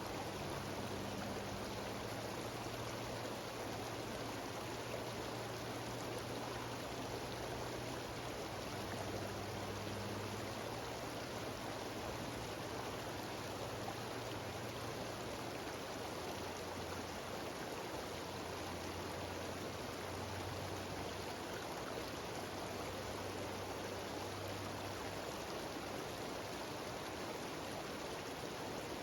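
Mountain stream cascading down a series of small waterfalls: a steady, unbroken rush of water.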